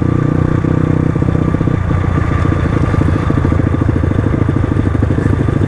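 Crossfire RM250 dirt bike's engine running steadily at an even pitch, with rapid, regular firing pulses.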